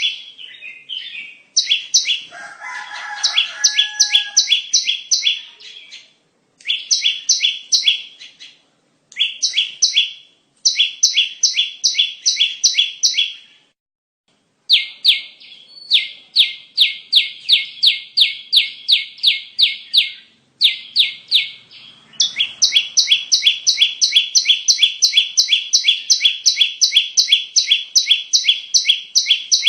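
Bar-winged prinia (ciblek) calling in fast runs of sharp, high chirps at about four a second. The runs are broken by short pauses and cut off abruptly in places. This is a looped lure recording used to call in ciblek.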